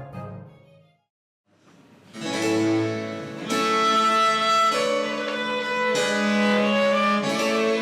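French Baroque chamber music: a keyboard phrase dies away, and after a brief pause bowed strings led by a violin enter with harpsichord, playing sustained melodic notes.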